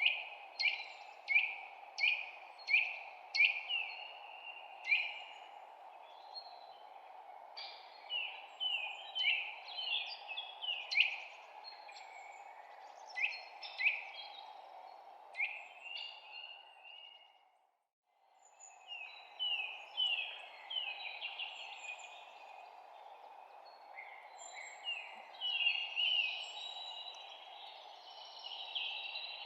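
Small songbirds chirping: a busy run of short, sharp, falling chirps and twitters over a steady background hiss. All sound briefly fades out about two-thirds of the way through and then comes back.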